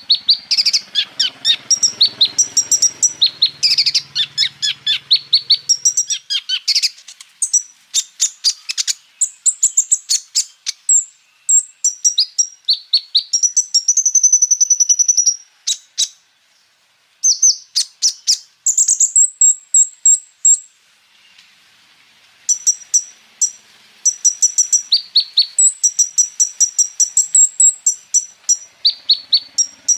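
Kolibri ninja sunbird singing: a fast, high-pitched song of rapid repeated chirps and rolling trills. It breaks off briefly twice past the middle, then picks up again.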